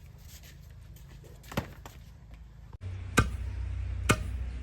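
Chopping with a blade: three sharp single strikes, about a second apart, with a low steady hum that comes in suddenly about three seconds in.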